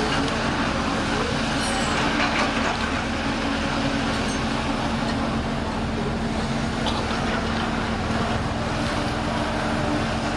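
Heavy machine's diesel engine idling steadily, with a few faint knocks.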